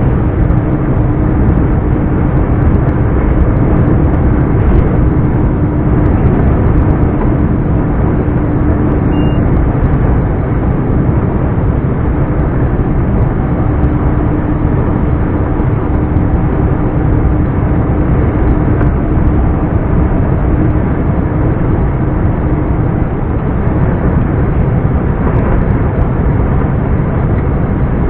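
Scania R420 truck's 12-litre straight-six diesel engine running steadily while driving. A steady low hum rides over it and stops about five seconds before the end.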